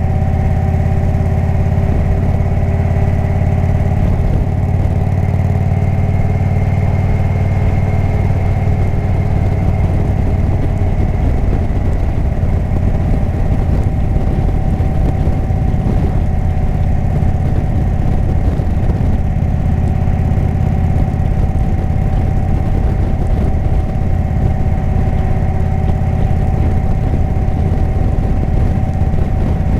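Indian motorcycle V-twin engine with a Jekill & Hyde exhaust running steadily, its pitch holding nearly constant.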